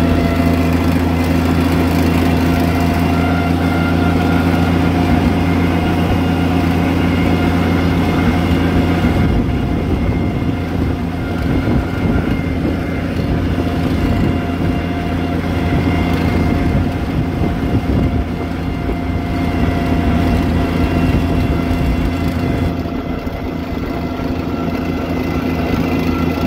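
Oliver 770 tractor engine running steadily. From about nine seconds in its low note turns uneven, then steadies again near the end.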